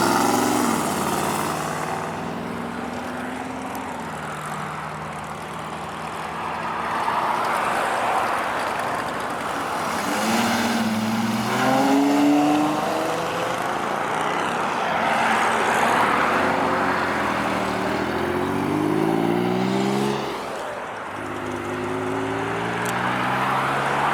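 Car engines revving and accelerating past one after another, the engine pitch climbing several times: about ten seconds in, again around eighteen to twenty seconds, and once more near the end.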